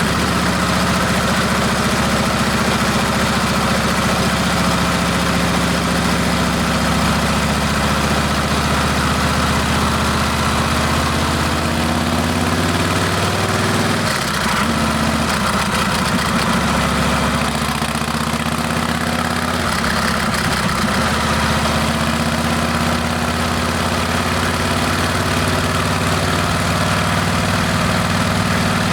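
Harley-Davidson Heritage Classic's Milwaukee-Eight V-twin running through a Rinehart exhaust: a steady, deep engine note that shifts briefly in pitch twice, about halfway through and again a few seconds later.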